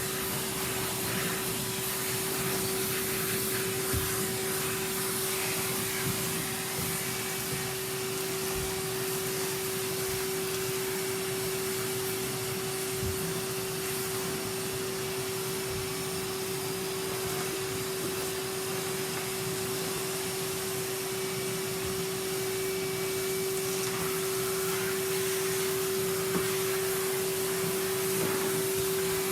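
Numatic Henry canister vacuum cleaner running steadily with a constant hum, vacuuming up wood shavings, with a few faint knocks.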